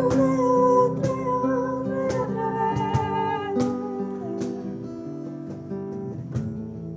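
Acoustic guitar strumming slow worship music, with a long held melody note that fades out around four seconds in.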